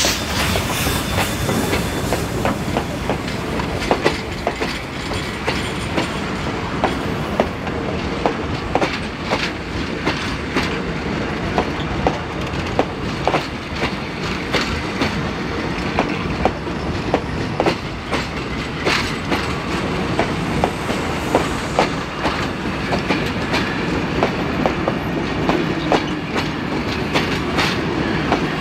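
Passenger carriages of a steam-hauled train rolling past close by, with a steady rumble and irregular sharp clicks as the wheels cross rail joints. A hiss of steam from the passing K class steam locomotive fades in the first couple of seconds.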